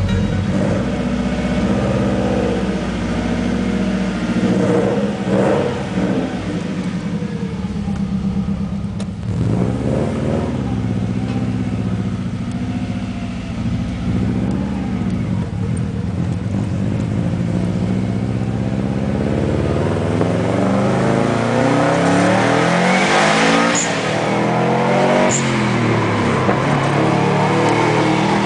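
1993 Subaru WRX's turbocharged flat-four engine breathing through a Kakimoto full exhaust, revved up and down again and again, the pitch climbing and falling with each rev, the revs coming in quicker succession in the last third.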